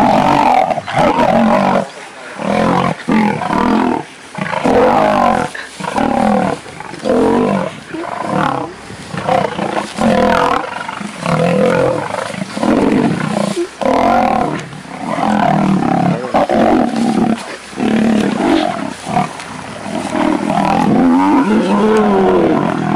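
Male lions roaring and snarling in a fight, one loud burst after another with short breaks between them: dominant males attacking another male lion.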